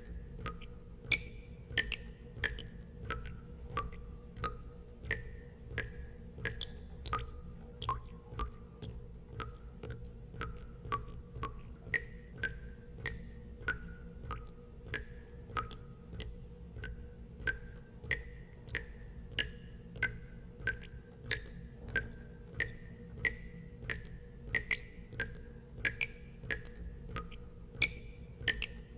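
Water drops falling into water, about two a second, each a short plink at a different pitch, over a steady low hum.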